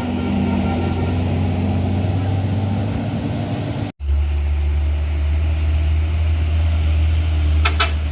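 Heavy truck engines running on a steep climb: a steady low rumble. The sound drops out for an instant about four seconds in, and two brief sharp sounds come near the end.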